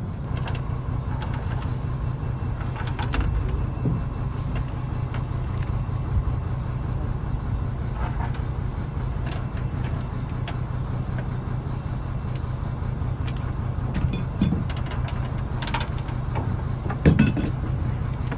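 A fishing trawler's diesel engine runs steadily with a low hum, with scattered knocks and clanks over it; the loudest knock comes near the end.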